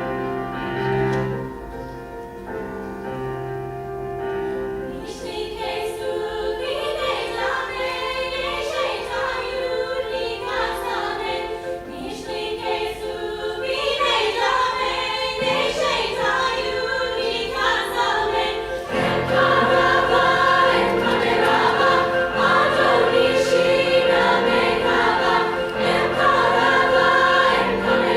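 Piano playing alone, then a women's choir comes in singing with piano accompaniment about five seconds in. The choir grows fuller and louder from about two-thirds of the way through.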